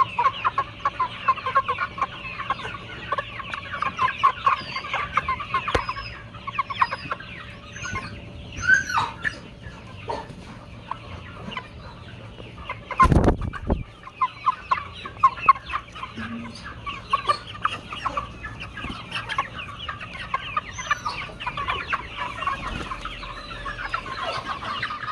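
A flock of chickens clucking busily, many short calls overlapping. The calls thin out for a few seconds, and a single loud knock comes about halfway through, after which the clucking picks up again.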